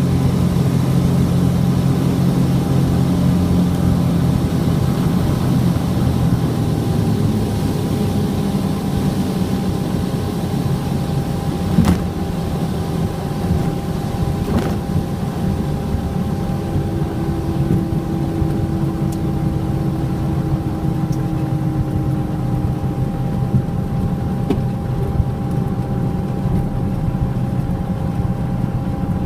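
Cessna 421's twin piston engines running with a steady drone. The deep tones step down in pitch about seven seconds in, as the power is eased back.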